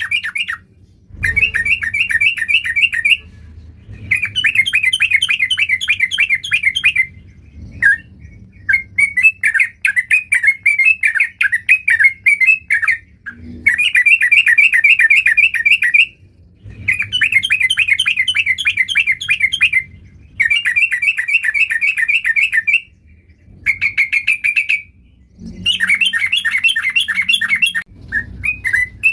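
Sooty-headed bulbul (trucuk) singing hard, in about nine loud phrases of fast, chattering notes, each lasting one to four seconds with short pauses between.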